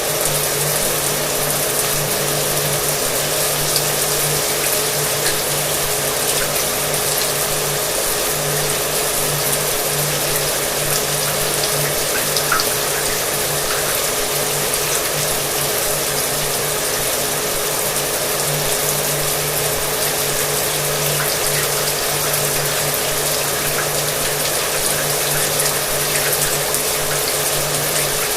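Shower water running steadily with a hair dryer's motor and fan whirring underneath as a steady low hum.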